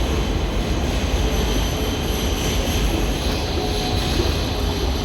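Steady rumble of a train running in the station, with a thin high electric whine above it.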